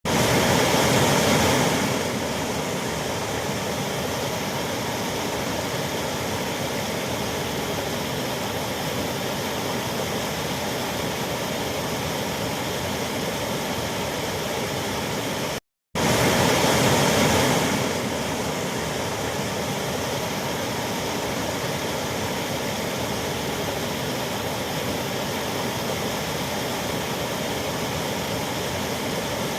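Waterfall rushing in a steady, even roar of falling water. It is louder for the first couple of seconds, cuts out for a moment about halfway, then comes back louder again briefly before settling to the same steady level.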